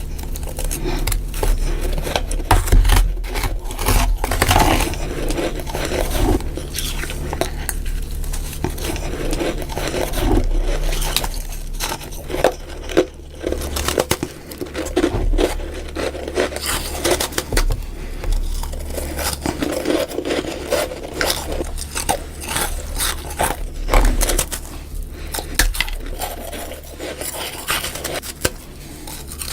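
Freezer frost being bitten and crunched close to the microphone, one crisp crunchy bite after another, sped up.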